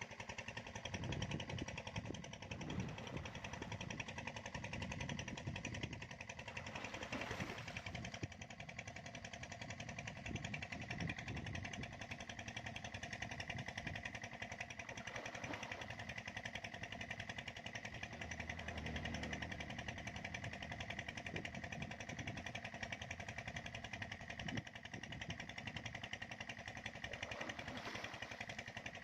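An engine running steadily, with a constant, unchanging hum.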